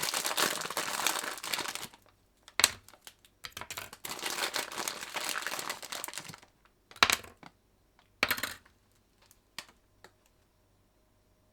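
Crinkling and rustling in two stretches of about two and three seconds, followed by three sharp knocks a second or so apart, then a few faint ticks.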